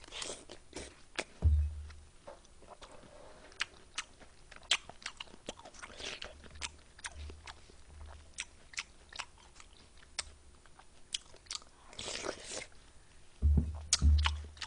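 Close-up mukbang eating: a person chewing and crunching mouthfuls of watermelon hwachae, a Korean fruit punch, with many short, sharp crunches and wet clicks. A few dull bumps come about a second and a half in and again near the end.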